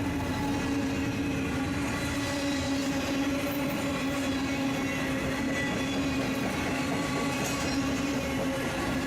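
BNSF freight train running by, a steady, even drone with a held low hum.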